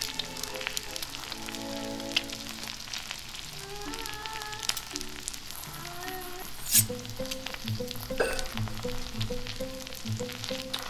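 Eggs sizzling and crackling as they fry in a small skillet. Background music plays over it, and a steady beat comes in about seven seconds in.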